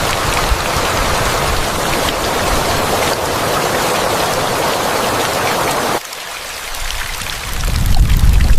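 Steady hiss of rain that stops abruptly about six seconds in. A low rumble then swells near the end.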